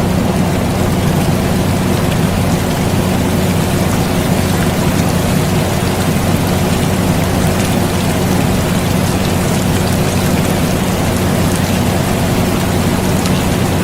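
Steady rain with fine scattered drop ticks, layered over the even hum of an air conditioner.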